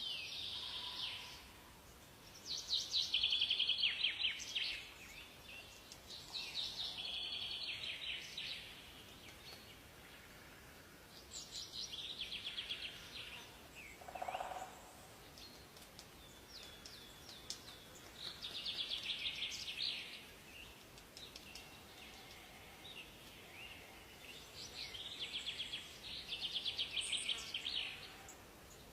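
Songbirds singing in a forest: short, rapid trilled phrases, high-pitched, repeat every three to seven seconds over a faint steady hiss. A single lower call comes about halfway through.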